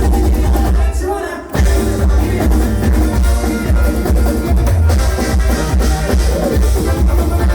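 Live bluegrass-style rock cover played by a full band with drums; the music drops out briefly about a second in, then the whole band comes back in together.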